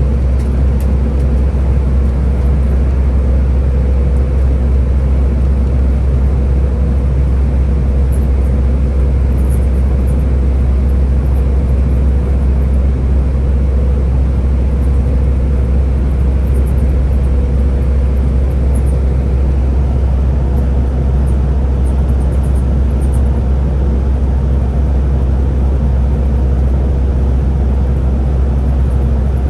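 Scania Higer A30 bus running: a steady, deep engine and drivetrain drone with a faint steady whine above it.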